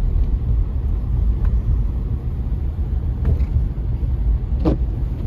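Steady low rumble of a car driving, heard from inside the cabin. A brief, sharper sound comes about three-quarters of the way through.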